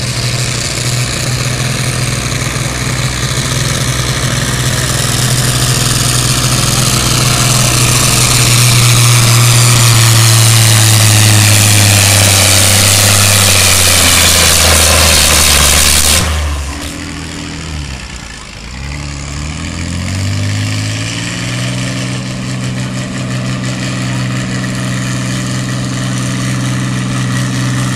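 Diesel pulling tractor at full throttle hauling the sled, its engine pitch slowly sagging under the load. About sixteen seconds in the throttle is chopped and the roar falls away; the engine dips low, then picks back up and runs steadily.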